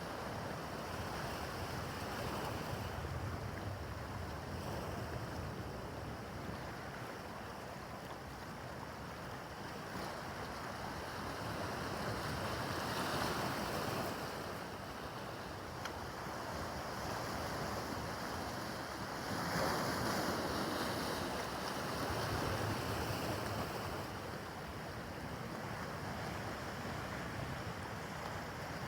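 Rough, choppy harbor water washing and splashing, with wind buffeting the microphone. The wash swells louder twice, about halfway through and again about two-thirds of the way in.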